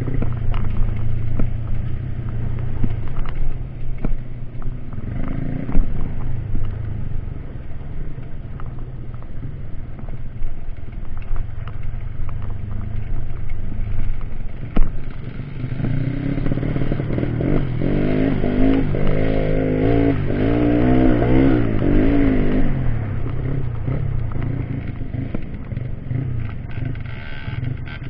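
Off-road trail motorcycle engine running, with scattered knocks and clatter. From a little past halfway it is revved up and down repeatedly for several seconds, then settles back.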